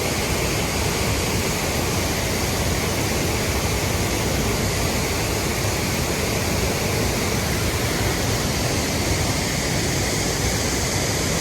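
Waterfall water rushing and splashing, a steady, even roar that does not change.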